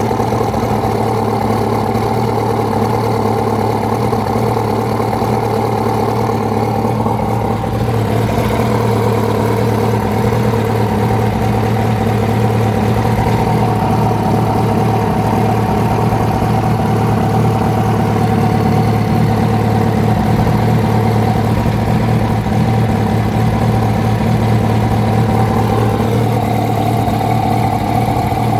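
2006 Yamaha R1's inline-four engine running steadily at around idle, its speed shifting slightly a few times. It carries the knocking noise that the owner traced to a worn #4 connecting-rod bearing, not cured by a new cam chain tensioner.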